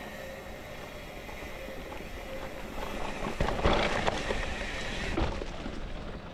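Mountain bike rolling along a dirt trail: steady tyre and wind noise on the microphone, with a louder, bumpier stretch of knocks and rattles from about three to five seconds in.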